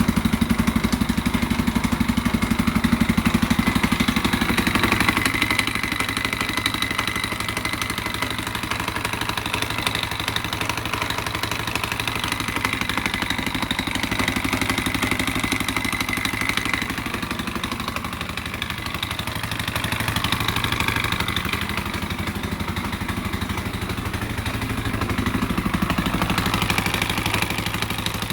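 2001 KTM 520 EXC's single-cylinder four-stroke engine idling with a knocking noise, the level swelling slightly a few times.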